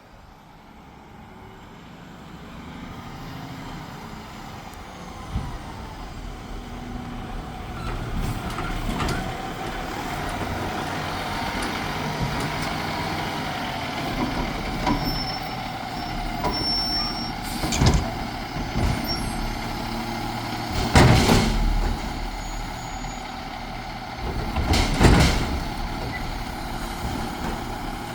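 Garbage truck running, growing louder over the first several seconds, with a steady whine through it. Three loud bursts of noise stand out in the second half.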